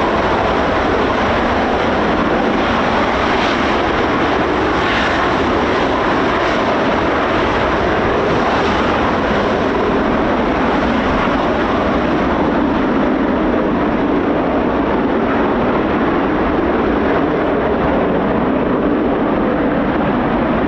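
Steady jet noise from the Red Arrows' BAE Hawk T1 jets, with gusty wind buffeting the microphone.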